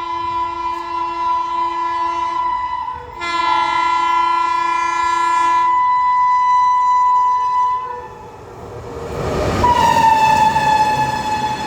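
Indian express train's locomotive horn blown in long blasts as it approaches, with a change of chord about three seconds in. Near the end comes the rush of the train passing at full speed, with the horn sounding again and dropping slightly in pitch as it goes by.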